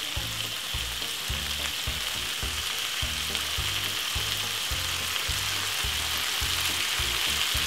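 Meatballs and vegetables sizzling steadily as they pan-fry in oil, over a low, even beat of background music.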